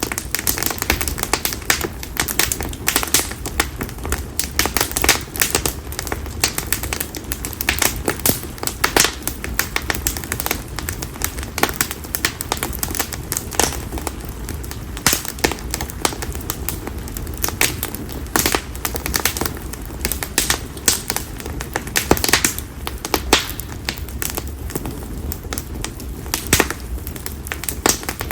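Split konara oak firewood burning in an open campfire, crackling and popping with many sharp snaps at irregular intervals over a low steady rumble.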